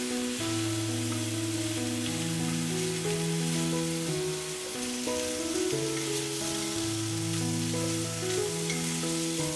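Food sizzling and crackling as it fries in a hot pan, under background music of held notes and a bass line.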